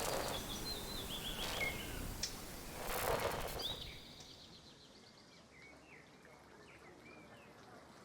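Small birds chirping in short, repeated calls over an outdoor background noise that swells about three seconds in, then drops away, leaving the chirps clearer.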